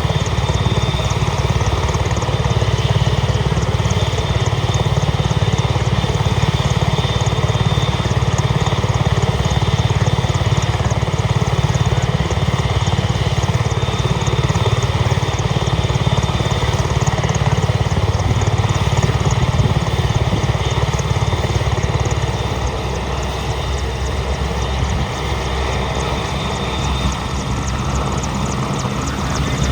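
AgustaWestland EH-101 Merlin helicopter running steadily, its turbine engines and rotor turning with a fast even beat; the sound drops a little about 22 seconds in.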